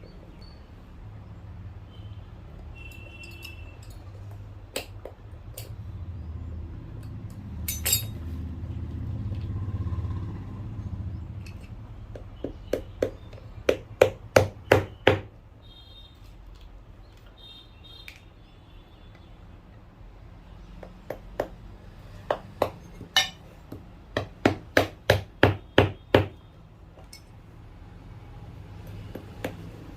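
Cobbler's hammer tapping on a shoe sole in two quick runs of sharp strikes, about three a second, with scattered single clicks between them. A low rumble rises and fades in the first third.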